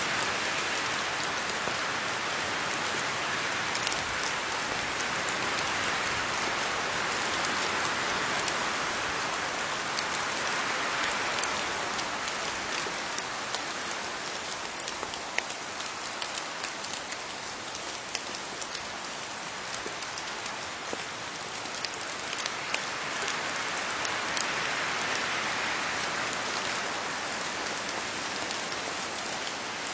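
Steady rain falling on leaves: a continuous patter with many individual drops ticking, swelling and easing slightly.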